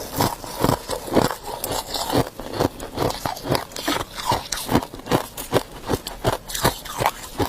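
A person chewing ice, a steady run of crisp crunches about two to three a second.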